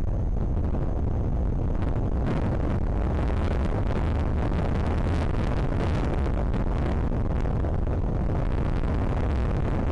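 Strong wind buffeting the microphone: a steady, heavy low rumble of wind noise.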